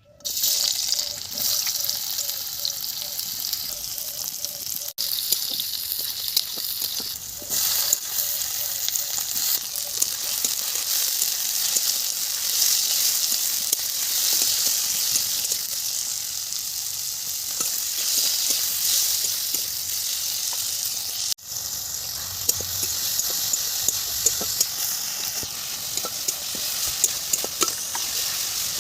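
Small fish sizzling and crackling in hot oil in a pan. The sizzle starts suddenly and keeps up loud and dense throughout, with two very brief breaks.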